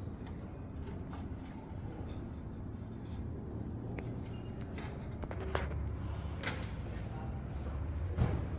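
Computer cables and plastic connectors being handled and fitted, giving a few light clicks and rustles over a steady low hum.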